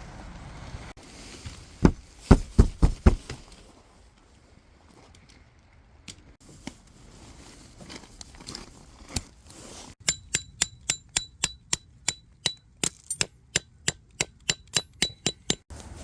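Sharp metallic strikes: a quick cluster of five hard hits, then a steady run of about four ringing taps a second, each with a short ring.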